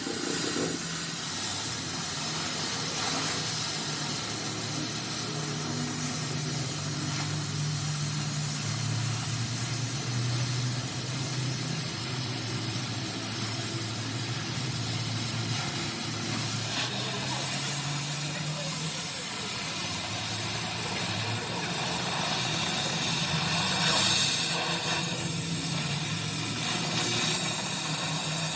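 A steady hiss with a low motor hum underneath whose pitch wavers up and down.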